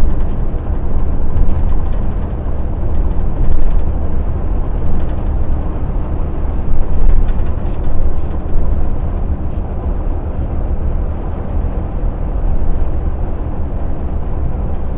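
Inside a heavy truck's cab while driving: steady diesel engine drone with road and tyre noise.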